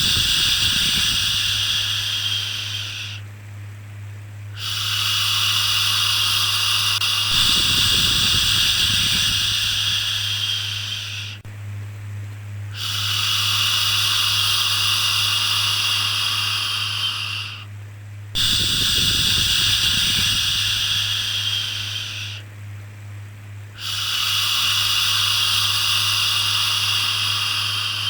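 Shushing 'shhh' sound for soothing a baby, repeated in long strokes of several seconds each with a pause of about a second between them, five in all. A steady low hum runs underneath.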